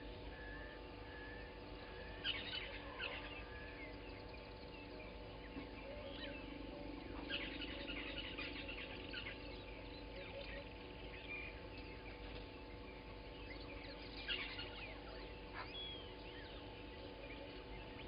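Wild birds chirping and calling, short high calls scattered through, over a faint steady low hum.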